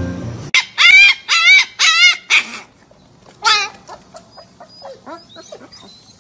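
An animal calling: five loud, wavering, high cries in quick succession about half a second apart, then one more, then a run of fainter short calls.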